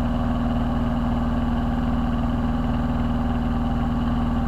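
Single-engine Piper PA-22 Tri-Pacer's piston engine and propeller droning steadily in flight, heard from inside the cabin, with an even, unchanging pitch.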